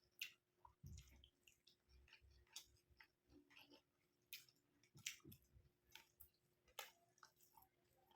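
Faint close-up mouth sounds of eating curry with rice: irregular wet chewing, with sharp lip-smack clicks every second or so.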